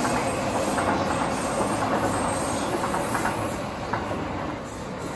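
A Yamanote Line electric train running along a nearby track as it moves off, a steady rolling rail noise that fades near the end.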